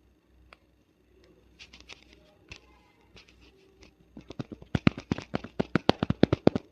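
Close-up crackling clicks of fingernails scratching through hair at the scalp. The clicks are sparse at first, then come fast and loud for the last couple of seconds.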